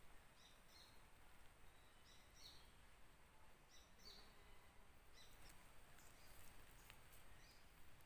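Near silence, with a distant bird calling faintly: short high notes in pairs, repeating about every second and a half.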